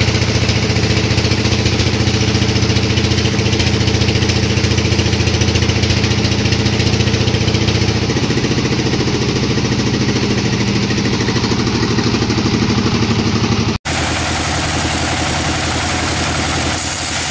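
Sawmill machinery running steadily with a deep engine-like hum. About 14 s in the sound breaks off for an instant and resumes thinner and less deep.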